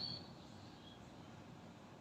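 A pause in a yellow-vented bulbul's calling: the end of a whistled call fades out in the first moment, then only faint background hiss.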